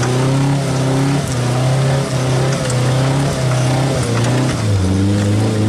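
Off-road 4x4's engine running under load as the vehicle crawls along the trail, its steady note dropping in pitch about four and a half seconds in.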